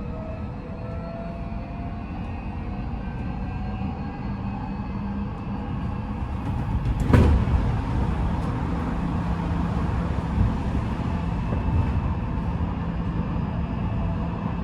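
Odakyu 5000-series electric train heard from inside the car: its Mitsubishi full-SiC VVVF inverter and traction motors whine, the tones climbing in pitch over the first few seconds as the train picks up speed, over steady wheel and rail rolling noise. About seven seconds in there is a brief loud rush of noise, after which the running settles to a steady hum.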